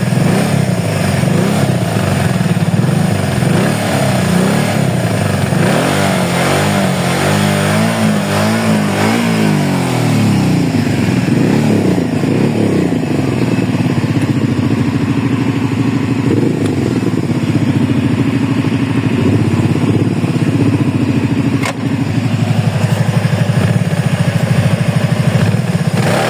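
ATV engine revved again and again, its pitch rising and falling in repeated swells, holding a steadier high rev for several seconds in the middle. A single sharp click comes a little after two-thirds of the way in.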